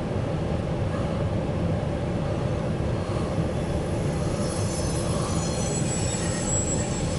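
Loaded CSX coal train rolling past, a steady rumble of its cars on the rails. About halfway through, a faint high wheel squeal joins in.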